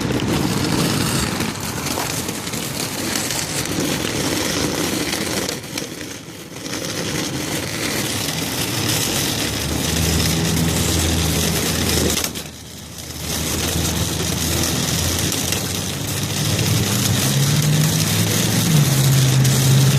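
Fire truck engine idling, a steady low hum under a constant rushing noise. The hum grows stronger in the second half, and the noise drops out briefly twice, at about six and at about twelve seconds.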